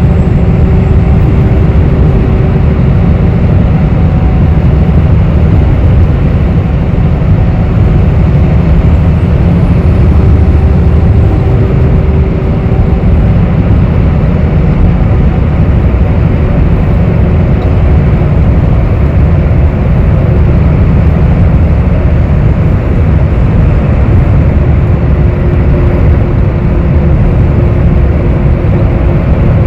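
Inside a moving city bus: steady, loud low rumble of the engine and road, with a faint whine that fades in and out.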